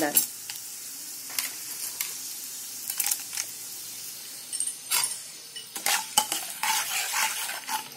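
Dals and spices sizzling steadily in hot ghee in a kadai, the tempering (tadka) for ven pongal. A spatula stirs and knocks against the pan with scattered sharp clicks, more often in the second half.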